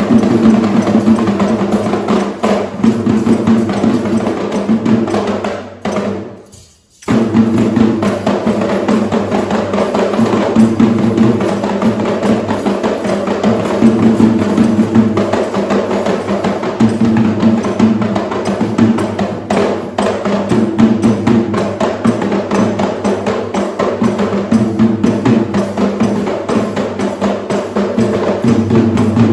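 Sri Lankan traditional drums played in a dense, fast rhythm. The drumming fades away about six seconds in and starts again abruptly a second later.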